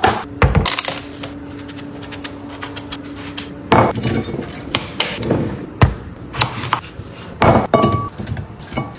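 Hard items such as containers being handled and set down: a series of separate knocks and clinks. A steady low hum runs under the first few seconds.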